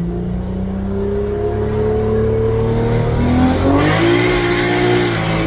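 Toyota 2JZ straight-six in the Honda Odyssey drift car pulling through a gear, its pitch rising steadily for about three seconds. About three and a half seconds in it changes gear with a brief hiss, the pitch drops, and it runs on steadily at lower revs.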